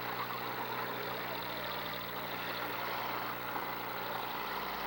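Demolition derby cars' engines running together in a steady, dense din.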